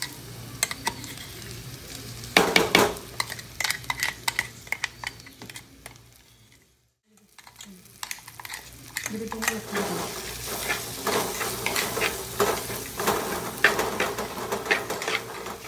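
A metal spatula stirring and scraping shallots and ground masala paste as they fry in a hot black pot, with a steady sizzle and sharp clicks of metal on the pot. The sound drops out briefly a little past halfway, then the stirring and sizzling pick up again.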